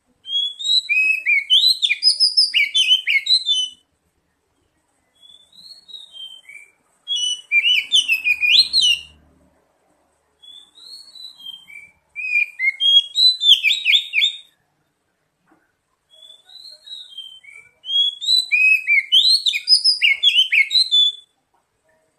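Oriental magpie-robin (kacer) song played as a lure recording. Four phrases of fast, varied whistled notes come with short silent gaps between them, and each phrase opens with a few soft notes before the loud run.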